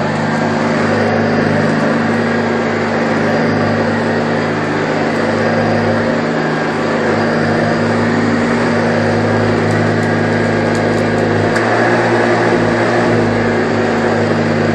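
A 1984 Hoover Junior U1104 upright vacuum cleaner running steadily at full power: a loud motor hum with rushing air from its plastic fan.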